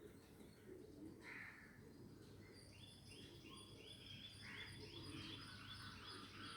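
Faint birds calling: one short call about a second in, then a steady series of quick repeated chirps, two or three a second, starting a little before halfway.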